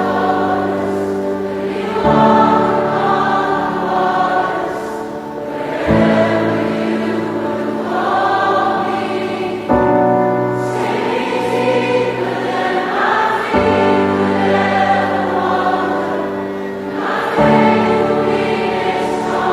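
Choral music: a choir singing sustained chords that change about every four seconds.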